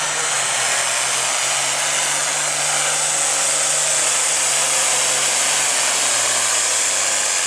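Farm stock diesel pulling tractor running flat out under load, a loud steady engine roar with a heavy rush of turbo and exhaust noise. The engine note sags a little near the end as the sled bogs it down.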